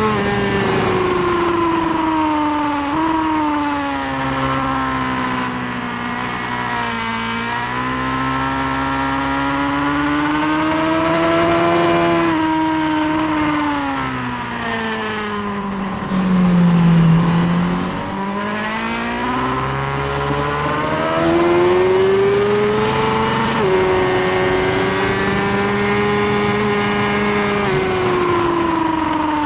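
The inline-four engine of a 2018 Suzuki GSX-R1000R sport bike running hard at track pace, heard onboard. Its pitch rises and falls through the gears: it sinks to its lowest about halfway through, then climbs again, with sharp shift steps about 3 and 23.5 seconds in.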